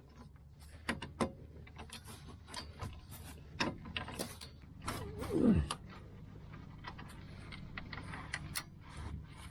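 Hand ratchet wrench clicking in irregular strokes while bolts on a car's front lower control arm are tightened. A short falling pitched sound about five seconds in is the loudest moment.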